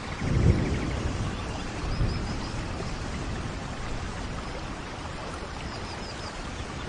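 Rainforest thunderstorm: steady rain falls throughout, with a low rumble of thunder swelling about half a second in and a smaller one near two seconds. Two sets of three short high chirps come from a calling animal in the forest.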